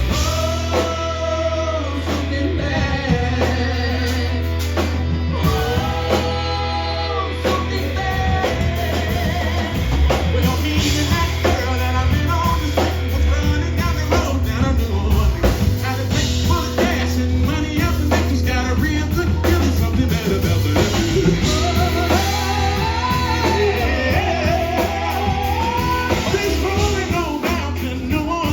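A live band playing a song: a singer's voice over drums, guitar and a steady bass line.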